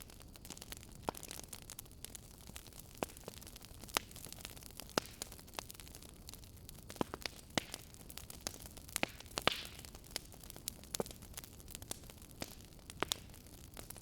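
Wood fire in a fireplace crackling: irregular sharp pops and snaps over a low steady hiss, with a short burst of hissing about nine and a half seconds in.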